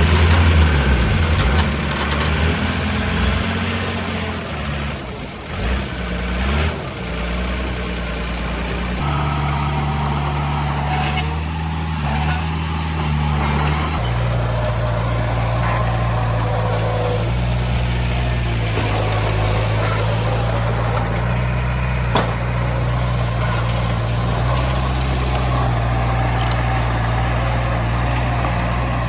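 Heavy diesel construction machinery engines running steadily, with the engine note shifting abruptly twice. A single sharp knock comes about three-quarters of the way through.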